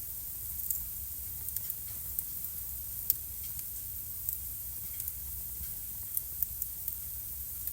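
Wood fire burning in a fireplace, crackling with irregular sharp pops over a steady low rumble and hiss. The loudest pop comes about three seconds in.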